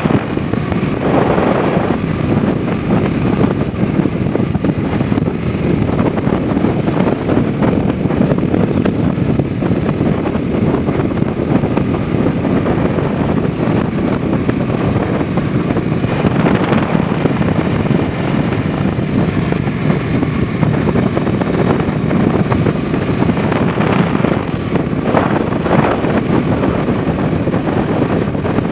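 Bajaj Dominar 400's single-cylinder engine and exhaust running steadily at riding speed, with wind rushing over the microphone.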